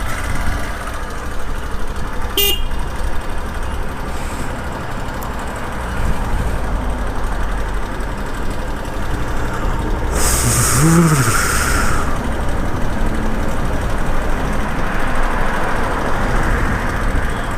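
Motorcycle engine running with a metallic clanking rattle from the timing chain, which the mechanic puts down to a worn, stretched chain. A short beep sounds about two seconds in, and a hiss with a brief rising-and-falling tone comes around ten to twelve seconds.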